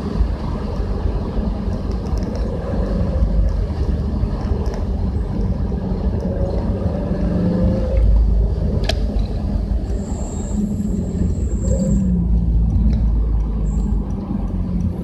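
Subaru Legacy BL5 GT's turbocharged flat-four engine and exhaust while driving at light load, a steady low rumble with road noise. A single click about nine seconds in, and a thin high tone for about two seconds a little after.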